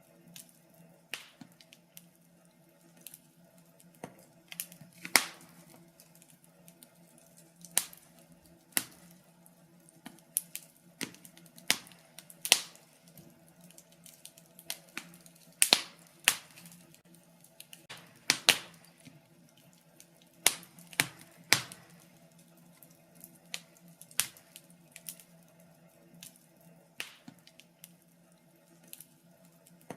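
Wood fire in a fireplace crackling: irregular sharp pops and snaps, one to a few a second, some much louder than others.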